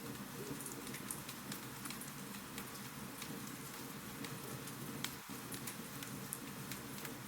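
Wood fire crackling in a fireplace: a steady hiss with irregular sharp snaps and pops.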